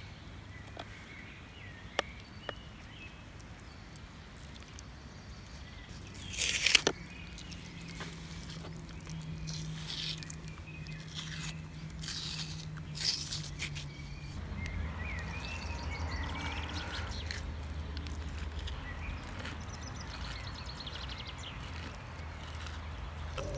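Outdoor ambience with faint bird chirps and scattered sharp clicks, a brief loud rustle or scrape about six and a half seconds in, and a low steady hum that grows stronger in the second half.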